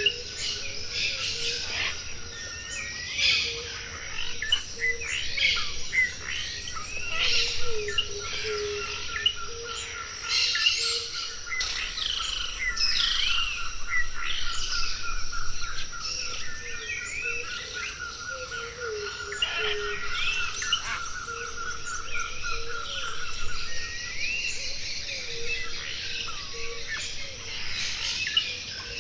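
A chorus of many tropical forest birds calling at once: overlapping chirps, whistles and upward-sweeping notes. A steady rapid trill runs underneath and stops about three quarters of the way through, while low short notes repeat throughout.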